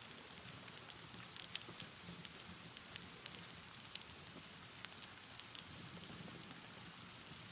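Wood fire burning with a steady hiss and frequent irregular crackles and pops from the burning logs.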